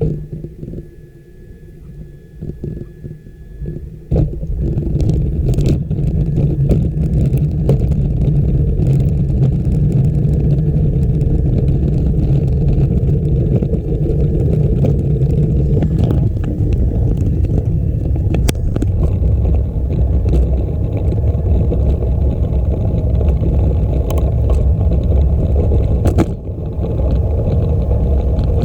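Steady low rumble of riding a bicycle, from wind on the microphone and tyres on the trail, jumping louder about four seconds in as the bike picks up speed, with a few faint clicks and knocks from bumps.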